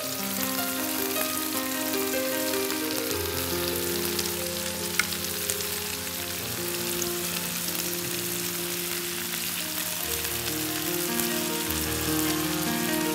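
Chicken pieces and sliced onions frying in a pan, a steady sizzle as a spice mixture is spooned over them. Background music notes are held underneath.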